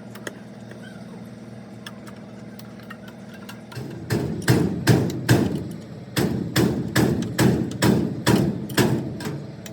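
A steady mechanical hum, then about a dozen hammer blows in quick succession, roughly two or three a second, starting a little under halfway through and stopping shortly before the end.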